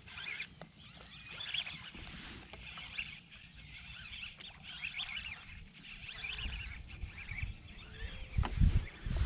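Birds chirping and calling over a steady high-pitched drone, with a low rumble starting near the end.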